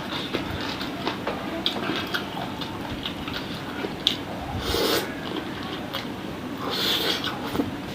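Close-miked eating of chicken-feet satay in spicy Padang sauce: chewing and sucking with many small wet clicks, and two louder, longer sounds about five and seven seconds in.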